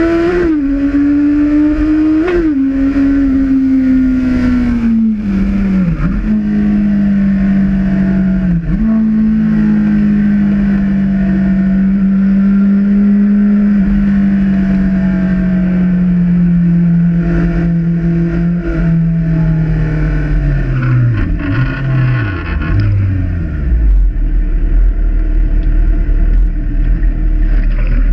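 Honda CB1000R's inline-four engine recorded from the handlebars while riding, holding a steady pitch with short blips and gear changes. Over the last third the revs sag, then step down through several downshifts as the bike slows, leaving a low rumble near the end.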